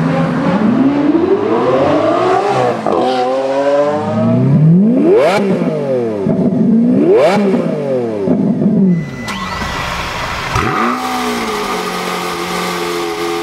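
A supercar engine revved several times, its pitch sweeping up and falling back, then a steadier running tone for the last few seconds.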